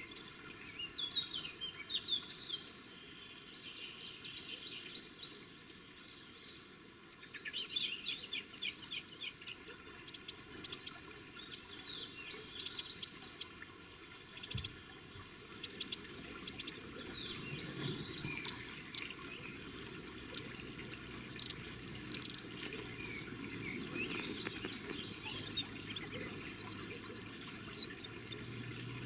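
Small birds calling: many short, sharp, high chirps in scattered clusters, with a fast run of evenly repeated notes near the end. A faint low rush of stream water runs underneath.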